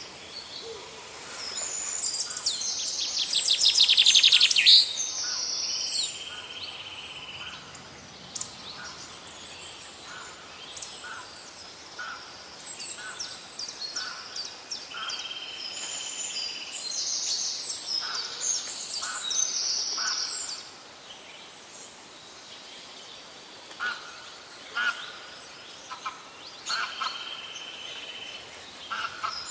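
Several birds calling and singing, with a loud rapid trill between about 3 and 5 seconds in, repeated buzzy notes, and many short high chirps throughout.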